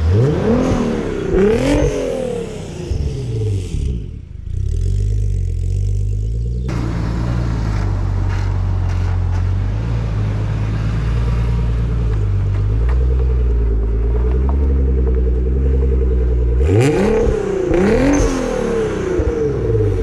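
Nissan 300ZX's twin-turbo VG30DETT V6 running, blipped up and back down a few times in the first two seconds and again near the end, idling steadily in between. The owner has found this engine to have low compression.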